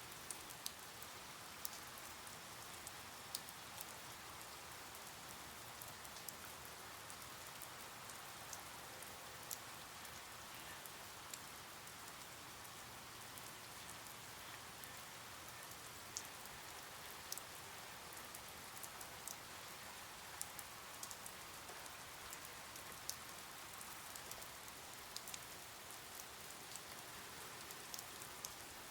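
Steady rain, a soft even hiss with scattered sharp ticks of individual drops striking a surface.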